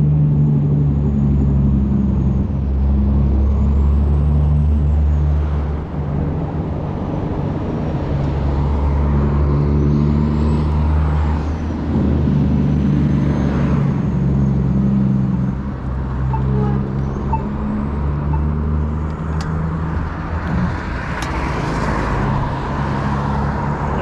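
Riding noise from a 20-inch folding fat-tire e-bike on the road: a steady low hum that dips briefly a few times, over a faint high whine that rises and falls several times. A few sharp clicks come near the end.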